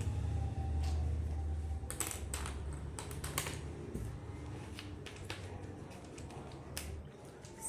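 Irregular light clicks and taps of small hard objects being handled, over a low rumble that fades out about seven seconds in.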